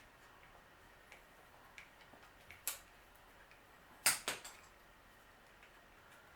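Metal clinks and taps of tools and bicycle parts being handled during disassembly. There are scattered light ticks, a sharper clink nearly three seconds in, and two loud metallic clanks in quick succession a little after four seconds.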